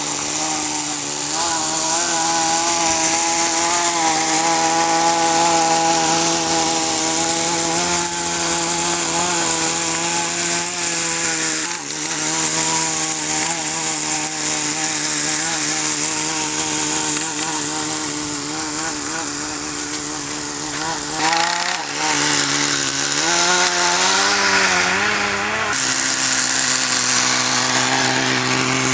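Small nitro glow engine of a Kyosho Nitro Blizzard RC snowcat running steadily at low speed while its slow (idle) mixture is being tuned. Its speed wavers and climbs for a few seconds in the last third, then settles into a steady note.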